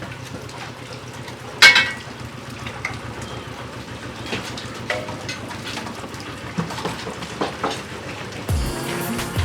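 Metal parts knocking and clinking against each other over a steady noisy background, with one loud ringing clang about a second and a half in. Music starts near the end.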